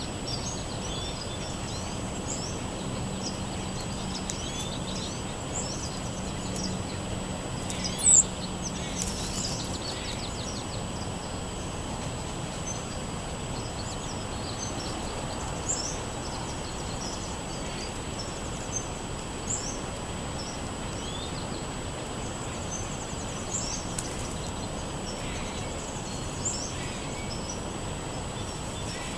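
Songbirds chirping, with many short calls scattered over a steady outdoor background noise. A brief, loud sharp sound about eight seconds in.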